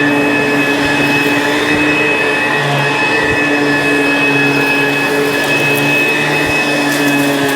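ProTeam ProForce 1500XP upright vacuum cleaner running steadily, its motor giving a constant whine over a rushing airflow.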